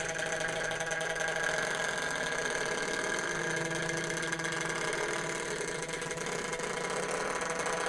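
Tri-ang B12 model locomotive's electric motor running at slow speed on the track, a steady, quite noisy whirr with a hum of several tones. It is running relatively smoothly for an older model.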